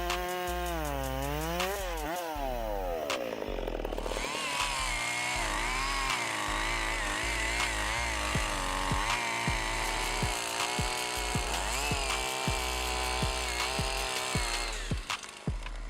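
Chainsaw engine running, its pitch swinging up and down as the throttle is worked, then a steadier wavering whine with a string of short clicks and knocks from about four seconds in.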